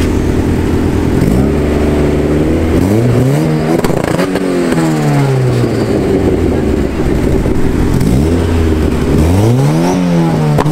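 Car engine idling, then revved up and let fall back twice, once about a second in and again near the end.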